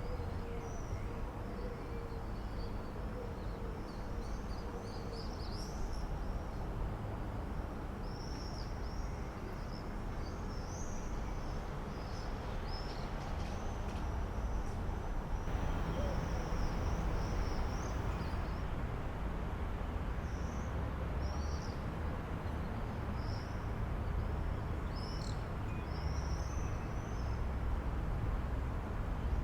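Birds chirping and singing, many short high calls throughout, over a steady low rumble.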